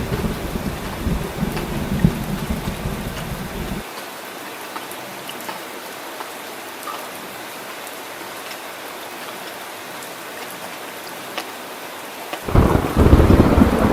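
Heavy rain falling steadily, with deep rolling thunder for the first few seconds that cuts off abruptly, leaving only the hiss of rain. Loud thunder rumbles in again suddenly near the end.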